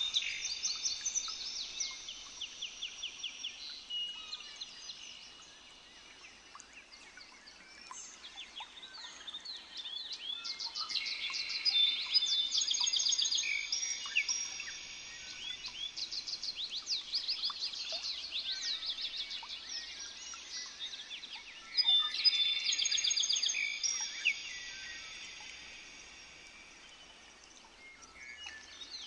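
Several birds singing and chirping, with fast runs of repeated high notes and a few longer held whistles; the chorus swells about a third of the way in and again about three-quarters through, and thins out near the end.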